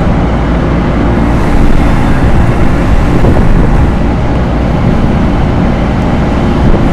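Loren Cook 100 ACEM centrifugal roof exhaust fan running at full speed on its newly fitted motor, a loud steady drone with a low hum.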